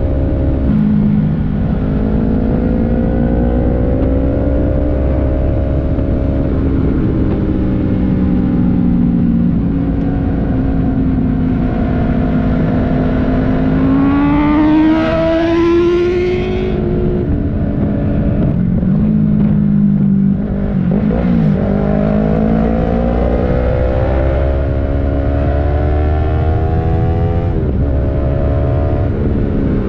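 Sport motorcycle engine under way, its pitch climbing and dropping again and again as it is accelerated and shifted through the gears, with wind rushing over the microphone. About halfway through, the engine note rises sharply and more harshly for a couple of seconds.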